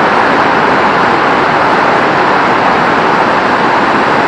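Very heavy rain pouring down in a loud, steady hiss.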